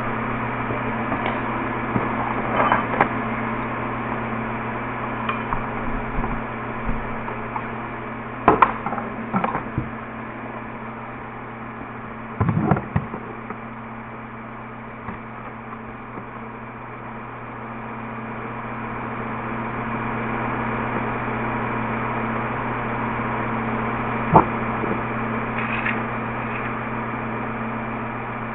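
A steady electrical hum, with occasional small clicks and knocks from handling parts or tools. The loudest are a cluster about a third of the way in and a sharp knock near the end.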